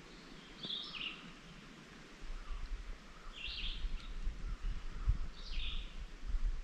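A songbird singing a short phrase three times, about every two to three seconds. From about two seconds in, an uneven low rumble on the microphone runs under it.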